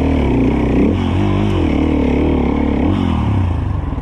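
Enduro dirt bike engine revving up and down in uneven blips, then dropping to a lower, pulsing idle about three and a half seconds in.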